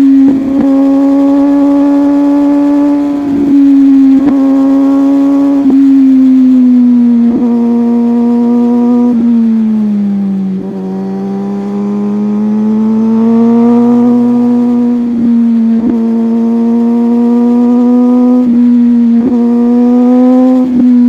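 Superbike engine running at steady high revs while riding. Its pitch sags a little about halfway through and then climbs back, with short, sharp breaks in the sound every second or two.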